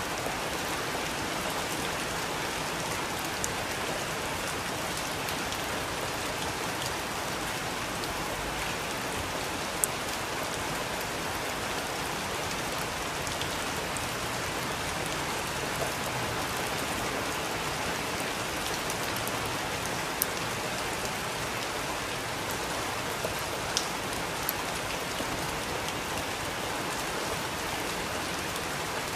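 Steady rain falling, an even hiss with now and then a sharp drip or drop hitting close by.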